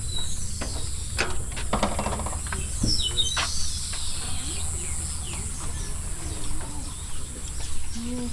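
Birds calling and chirping, with a cluster of quick high chirps around three seconds in and a sharp click and a short buzzy call earlier. Under them run a steady high hiss and a low rumble.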